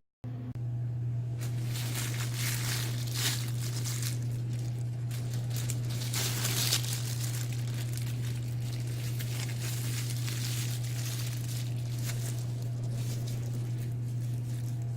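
Irregular rustling and rubbing from hands handling materials, over a steady low hum.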